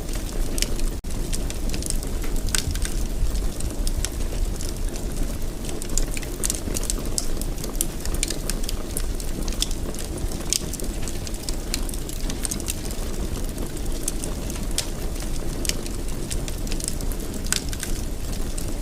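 Wood fire crackling in a fireplace: a steady low rumble of flames with frequent sharp pops and crackles. The sound drops out for an instant about a second in.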